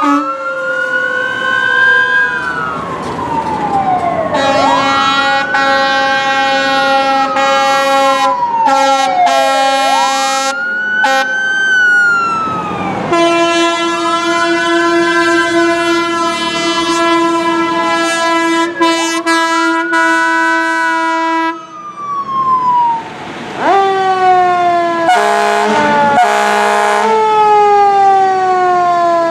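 Fire truck air horns sounding in long blasts over a wailing siren that rises and falls about every four seconds. Near the end, a siren sweeps slowly down in pitch.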